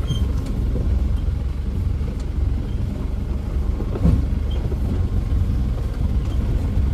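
Steady low rumble of a Mahindra Thar 4x4 being driven, with a short knock about four seconds in.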